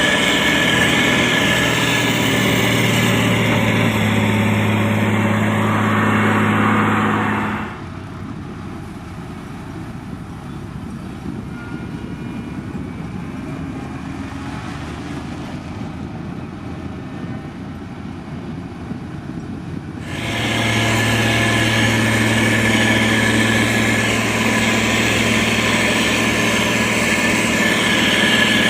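Diesel engine of a SANY STG190C-8S motor grader running with a steady, strong low hum. About eight seconds in it drops abruptly to a quieter, duller rumble for about twelve seconds. Then the loud engine sound returns just as abruptly.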